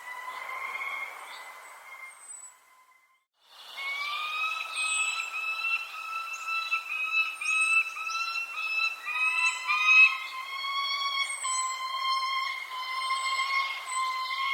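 Many birds chirping, with short high chirps over a steady whistling tone that shifts pitch in small steps. The sound cuts out briefly about three seconds in, then resumes.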